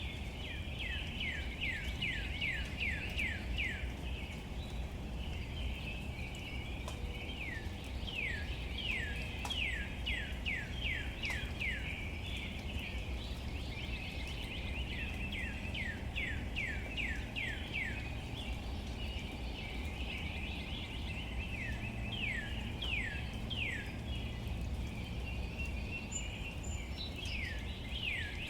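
Steady outdoor rain ambience: a low rumble and soft patter with scattered drip-like ticks. Over it a bird repeats runs of quick downward-slurred whistled notes, two or three a second, with a new run every few seconds.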